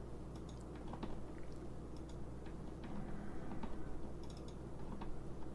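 Light, scattered clicks of a computer mouse and keyboard being worked, over a low steady hum.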